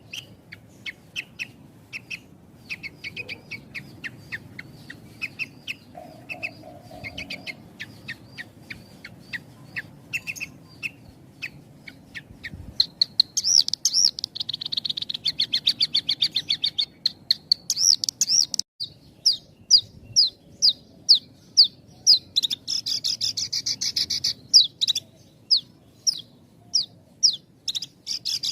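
Javan bush lark (branjangan) singing: a long run of quick chirps, then louder, higher trills about halfway through, then a string of sharp sweeping notes about two a second. The phrases come with only short gaps between them.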